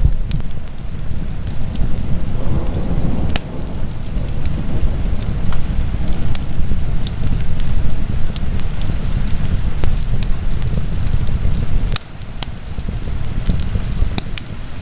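Wood fire crackling in a fireplace, with many irregular sharp pops and snaps over a steady low rumble of flames. The rumble drops suddenly twice.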